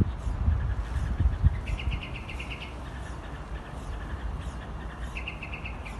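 A bird's rapid, even trill of short high notes, about ten a second, heard twice: about two seconds in and again near the end. Under it runs a low rumble of wind on the microphone.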